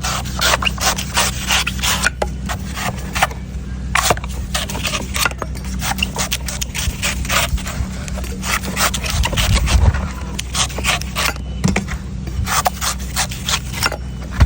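Knife cutting a coconut: a fast, uneven run of sharp chops and scrapes into the husk and shell, over a steady low hum.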